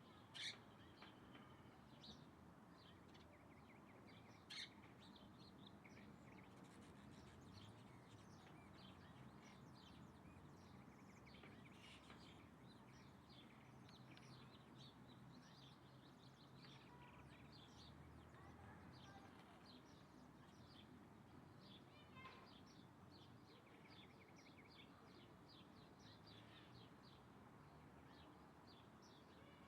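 Faint chorus of small birds chirping, many short high calls throughout, with a few louder single calls about half a second in and about four and a half seconds in, over a low steady background hum.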